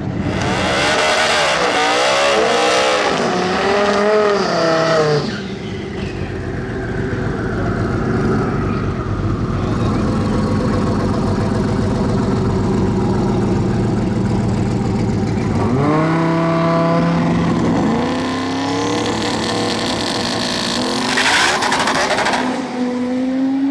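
Drag-racing cars' engines revving, the pitch wavering up and down, then a long stretch of engines running hard at high revs, then more revving with rising pitch near the end.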